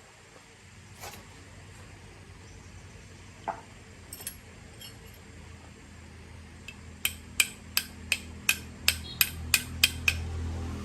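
A run of about ten sharp metallic taps, evenly spaced at roughly three a second, like a hammer tapping on a metal engine part, after a few scattered clicks. A low steady hum builds underneath toward the end.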